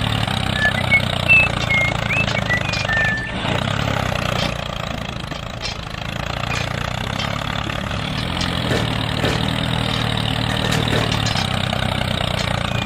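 A small engine running steadily at a low, even speed, with a few short high chirps in the first three seconds.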